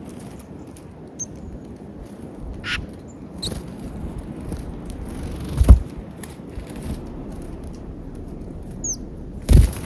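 Small wild birds giving a few short, high chirps at a peanut feeder, over a low steady rumble, with two loud thumps, one about halfway through and one near the end.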